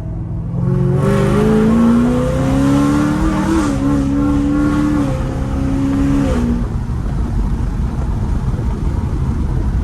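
Modified 800-horsepower Camaro ZL1 1LE's supercharged V8 pulling hard under full throttle, its note rising in pitch with a couple of small dips, then lifting off about six and a half seconds in. Low road and engine rumble carries on after the lift.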